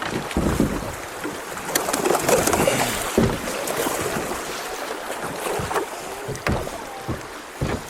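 Kayak paddling on a creek: water splashing and rushing, with several dull knocks of the paddle or hull.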